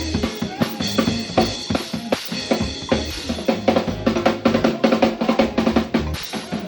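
Live band playing an instrumental jam, a drum kit driving it over steady pitched notes from other instruments; the drums break into a rapid run of strokes from about halfway through to near the end.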